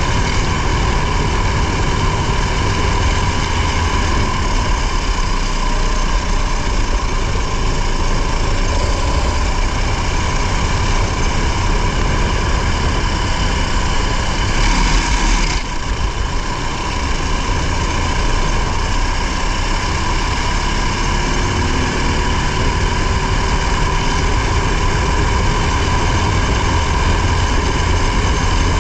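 Racing vehicle's engine heard onboard, running hard at fairly steady revs, with wind and road noise. About halfway through there is a brief burst of hiss and a short dip as the engine comes off and back on.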